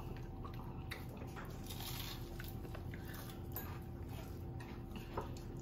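Faint biting and chewing of fried chicken, with a few soft clicks over a low steady hum.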